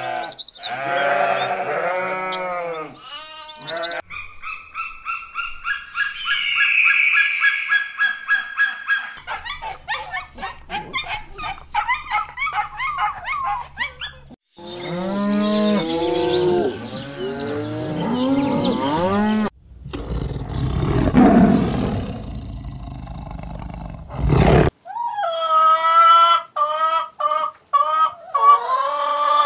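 A string of farm animal calls, cut one after another: sheep bleating at first, then other animal calls, and chickens calling near the end.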